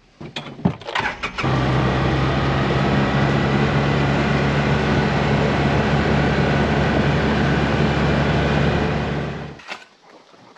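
An engine running steadily at an even speed for about eight seconds, starting abruptly after a few clicks and cutting off near the end.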